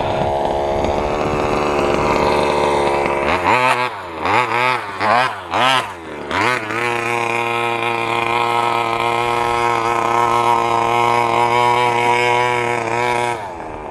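Small two-stroke petrol engine of a large-scale FG RC stadium truck running, blipped up and down about five times in quick succession, then held at steady revs before dropping away near the end.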